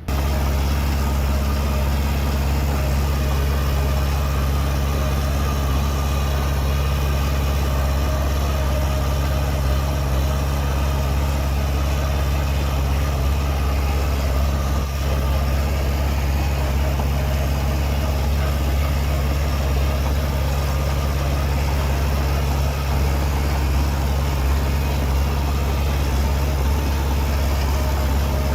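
Heavy diesel engine of earthmoving machinery running steadily at a constant low speed, with a deep even drone and no revving.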